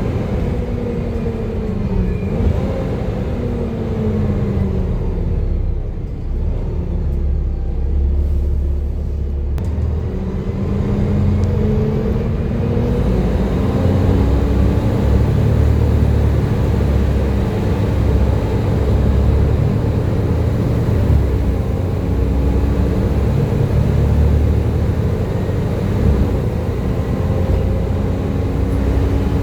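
Volvo B7TL double-decker bus engine running under way with its whining 'hoover' note: the pitch falls as the bus slows over the first few seconds, then climbs as it pulls away about ten seconds in and holds fairly steady, with brief dips near the end.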